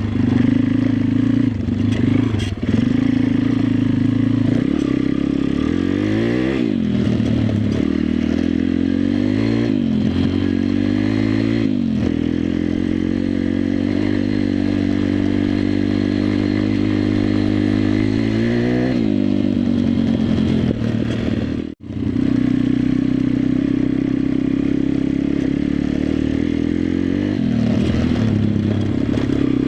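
Single-cylinder four-stroke engine of a WPB 140 Race pit bike under way, revving up through the gears in several quick rising sweeps, then holding a steady pace before easing off. The sound cuts out for an instant a little past the two-thirds mark, then the engine runs steadily again with a short rev near the end.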